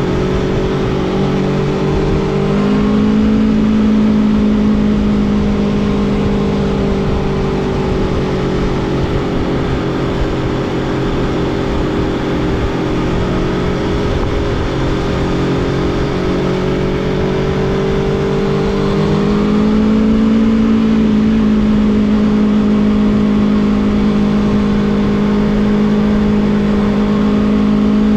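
Aprilia Tuono V4 motorcycle's V4 engine running under way at a steady pace, its pitch climbing a step about three seconds in and again about twenty seconds in, then rising once more at the very end. A steady rush of noise sits beneath the engine throughout.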